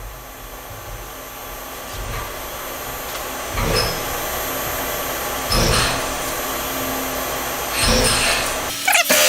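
Brother Speedio S500X1 CNC mill machining an aluminium block: a steady hissing machine noise with thin steady tones, swelling three times about two seconds apart, with a few sharp clicks near the end.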